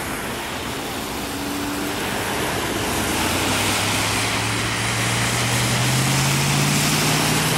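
A freight train rolling away over the rails, with a diesel engine's drone building from about three seconds in, rising slowly in pitch and getting louder.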